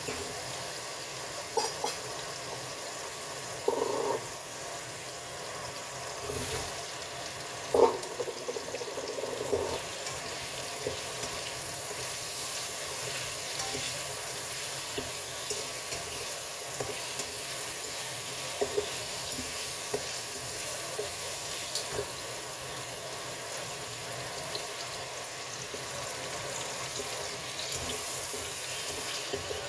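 Zucchini slices sizzling in hot oil in a wok while a spatula stirs them, with a steady hiss. A few sharp knocks of the spatula against the wok come in the first eight seconds, the loudest about eight seconds in.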